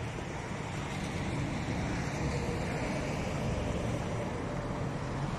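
Volkswagen Polo hatchback's engine running at low revs as the car creeps slowly into a parking space, heard as a steady low rumble mixed with outdoor noise.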